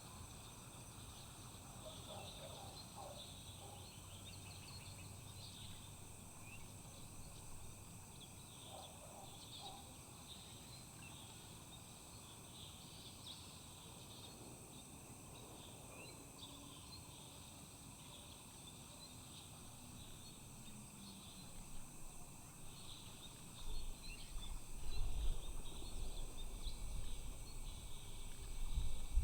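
Steady outdoor insect chorus of crickets or similar insects, a high continuous trilling, with scattered short chirps and calls from birds or insects. About 24 s in, irregular low rumbling thumps come in and become the loudest sound.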